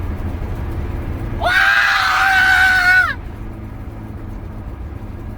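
BMW E36's turbocharged M50B25 straight-six droning steadily through its full exhaust while driving. About a second and a half in, a long held yell in a person's voice lasts about a second and a half.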